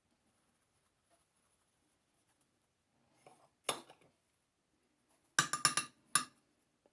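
A spoon knocking against a dish: one knock about halfway through, then a quick run of about five sharp, ringing clinks and one more just after, as the cocoa-and-brown-sugar topping is tapped off the spoon.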